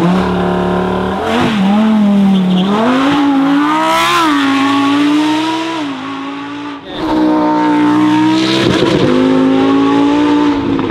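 Lamborghini Huracán STO's naturally aspirated V10 launching hard off the line, revving up sharply and then running at high revs with the pitch climbing and dropping through quick gearshifts. The sound dips briefly about six seconds in, then the engine is at full throttle again with a steady high note.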